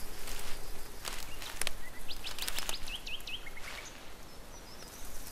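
Birds chirping over steady outdoor hiss, with a quick run of short rising chirps about two to three seconds in and a few faint high notes near the end.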